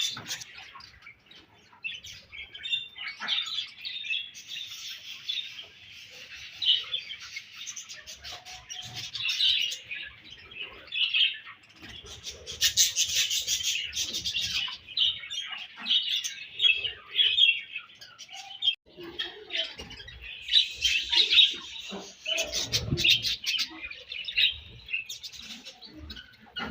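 Several budgerigars chattering and chirping without a break, with sharp clicks mixed in, in clusters about halfway through and again later.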